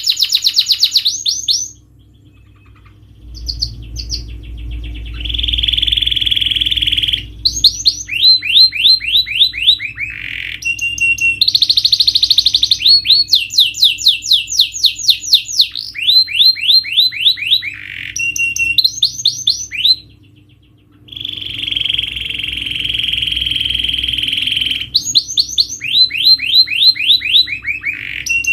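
Domestic canary singing a long, loud song: rapid trills of repeated down-slurred notes alternating with long buzzy rolls, broken by two short pauses, one near the start and one about two-thirds through.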